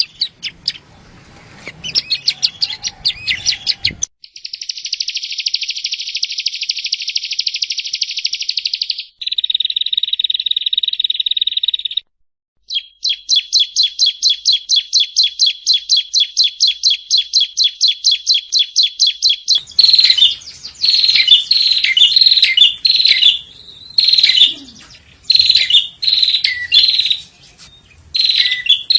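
Yellow-bellied prinia (prenjak rawa) song in an edited training recording. It opens with fast chips, then a long buzzy trill that stops and switches abruptly to a second buzzy trill, then a fast, even chattering trill. After a short break it turns to loud, repeated short phrases with pauses between them.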